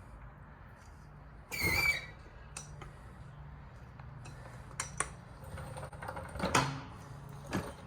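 A car being let down off jack stands: a short squeak about a second and a half in, then three sharp metal clunks spread over the following seconds.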